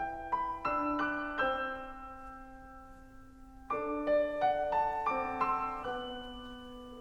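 Background music: solo piano playing slow, gentle notes, struck in small groups and left to ring, with a long held chord in the middle.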